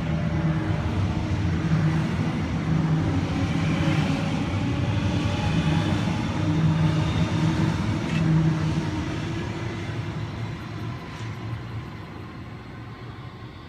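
Sydney Trains Waratah electric multiple unit pulling away from the platform, its traction motors giving a rising electric whine over the running hum, then fading as the train draws off.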